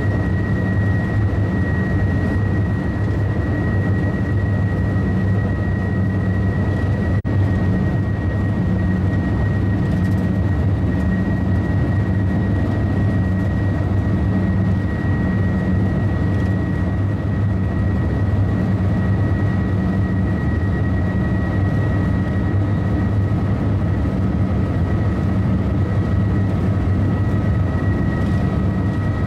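High-speed train running at speed: a steady deep rumble with two faint, constant high-pitched whines above it.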